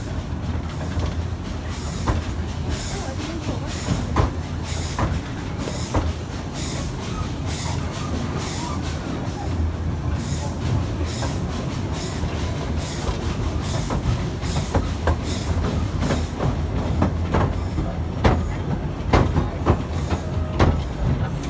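Efteling park train running: a steady low rumble with a regular hissing beat about twice a second and occasional clicks.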